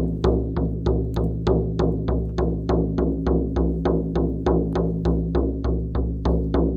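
Shamanic frame drum beaten in a steady rhythm, about three strikes a second, each stroke ringing over a deep sustained hum.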